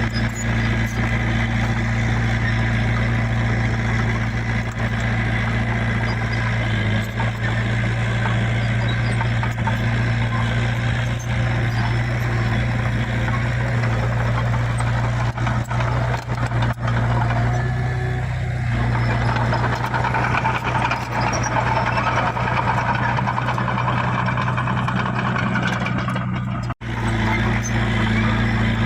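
Heavy diesel engine of earthmoving machinery running steadily at a constant pitch, with a momentary break in the sound near the end.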